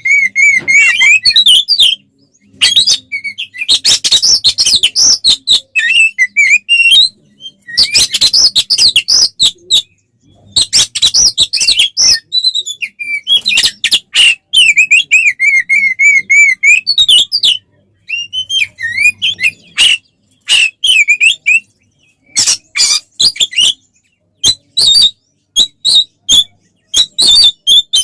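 Oriental magpie-robin (kacer) singing loudly in the fast, aggressive fighting style. Bursts of warbled trills and rapid rattling chatter of clipped notes alternate with brief pauses.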